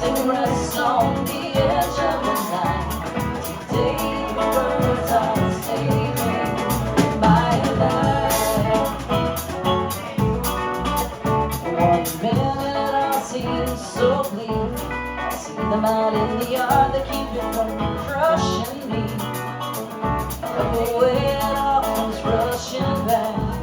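A band playing a song live, guitar prominent, with a steady beat and no clear lyrics in this stretch.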